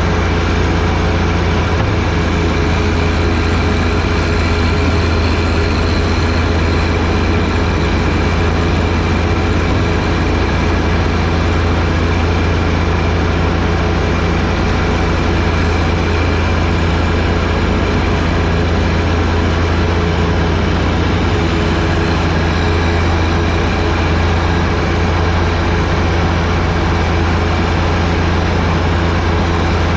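John Deere 1025R sub-compact tractor's three-cylinder diesel engine running steadily at a constant speed while it works a front-mounted 47-inch snowblower, giving a loud, unbroken low hum.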